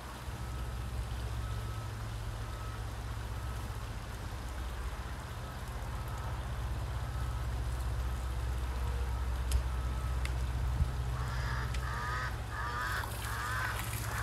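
Steady low outdoor rumble. From about 11 seconds in, a bird calls in repeated bursts of quick chirping notes. Near the end, water starts running from a garden hose.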